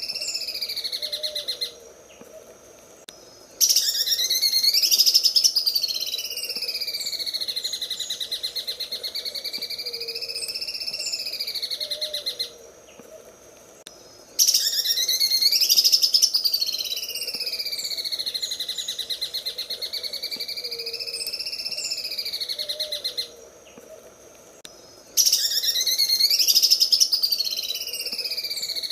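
Cucak ijo (greater green leafbird) singing its 'sewing machine' song: a fast, rattling stream of notes that swings up and down in pitch. The same phrase repeats about every eleven seconds, each starting with its loudest part after a pause of about two seconds.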